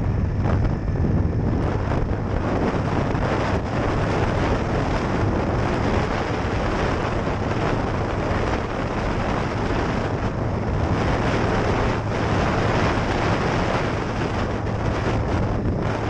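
Wind rushing over the microphone of a moving Harley-Davidson Sportster, with its V-twin engine running steadily underneath.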